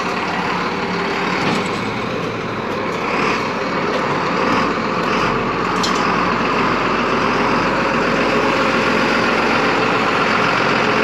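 Heavy farm machine's engine running steadily at an even speed, with a couple of faint ticks about midway.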